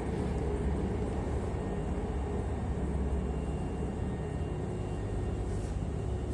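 Hankyu Kyo-train Garaku train: a steady low rumble with a faint, steady high hum over it.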